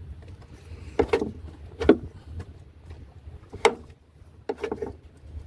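A handful of sharp clunks and knocks, each with a short metallic ring, from hatch fittings on an aluminium sailboat being worked by hand. The loudest come about two seconds in and again past three and a half seconds.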